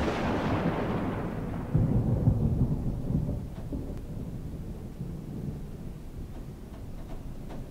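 A thunderclap dying away, followed by a deep rolling rumble of thunder that swells about two seconds in and then fades.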